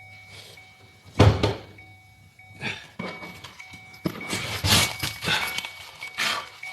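A heavy thunk about a second in, followed by a run of lighter knocks and scrapes as car interior parts are handled.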